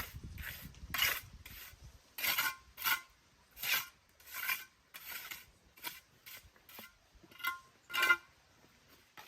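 Repeated scraping strokes, about a dozen at an uneven pace, a few with a faint ringing tone, over a low rumble that fades out about two seconds in.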